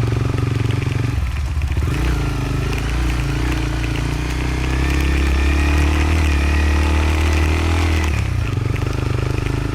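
Motorcycle engine running on a dirt road, pulling harder from about two seconds in, swelling around five seconds, then dropping back near eight seconds as the throttle eases or a gear changes.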